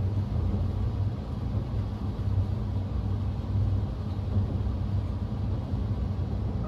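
Steady low rumble of the Saphir Odoriko, an E261-series electric express train, running along the line, heard from inside the passenger car.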